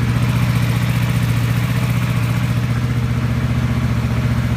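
Kawasaki VN750 Vulcan's V-twin engine idling steadily with no choke. It is a high idle, which the owner can't account for, on carburettors that have not been tuned.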